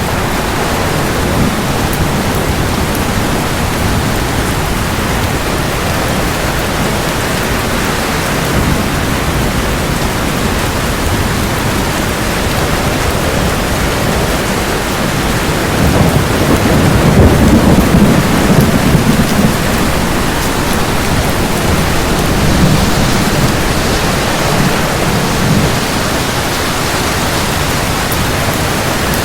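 Steady heavy rain with rolling thunder: a low rumble swells about halfway through, peaks for a few seconds, and a weaker rumble follows.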